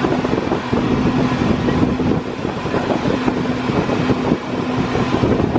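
Wind buffeting the microphone over the steady drone of an engine, which drops out briefly now and then.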